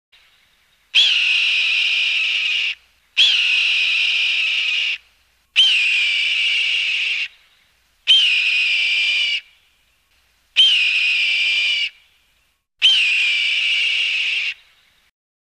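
A bird of prey (presented as a falcon) screaming: six long, harsh cries about two and a half seconds apart, each opening with a quick upward flick in pitch and then held for well over a second.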